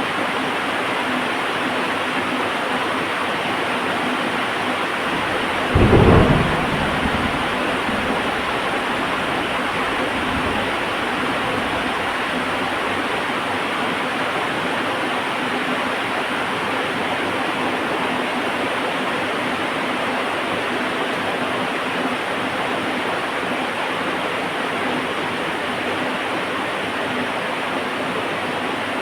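Heavy rain falling steadily, with one thunderclap about six seconds in that rumbles briefly and fades back into the rain.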